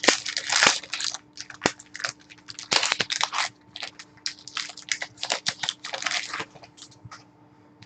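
Foil trading-card pack wrappers crinkling and being crumpled, with cards handled, in a run of short rustling bursts that stop about seven seconds in.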